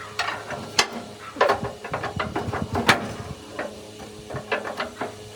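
A series of irregular sharp metal knocks and clinks, about a dozen strikes of varying loudness with the loudest near the middle, as parts are tapped or handled during work on the machine.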